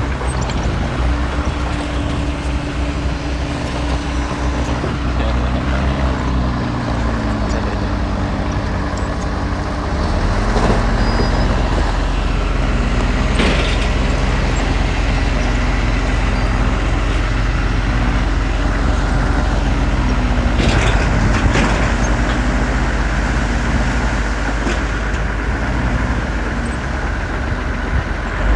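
Diesel engine of a Komatsu D20P bulldozer working under load, its pitch shifting several times as the load changes, with a few sharp metal clanks.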